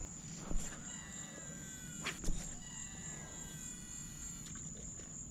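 Outdoor pond ambience: a steady high-pitched insect drone, with a few falling whistled calls from wildlife and two or three short knocks.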